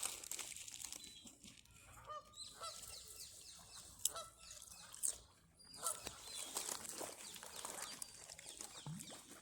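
Geese honking, many short calls overlapping one another from a flock, with a couple of sharp clicks about four and five seconds in.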